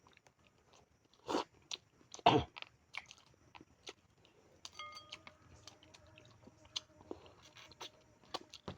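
A person chewing and biting into a mouthful of tamban sardines and corn rice, with irregular crunches, two louder ones in the first few seconds.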